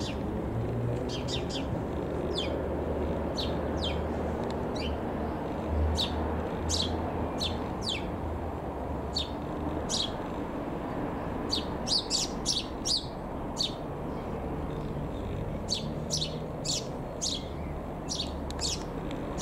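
Small birds chirping over and over in quick, sharp, falling notes, over the steady low drone of an AgustaWestland AW109SP Grand New twin-turbine helicopter flying overhead.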